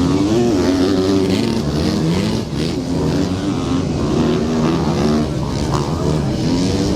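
Several motocross dirt bikes racing together, their engines revving up and down through the gears with overlapping, rising and falling notes.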